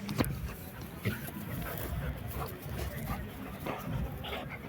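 A dog making small sounds, mixed with scattered clicks and rustling.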